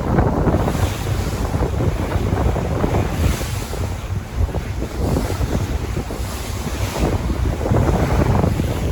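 Sea waves washing in, rising and falling in several surges, with wind buffeting the microphone and adding a low rumble.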